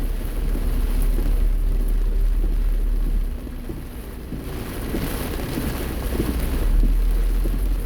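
A car driving in heavy rain: a steady low rumble of the car and road, with rain hissing over it. It dips quieter about three seconds in, then swells louder again.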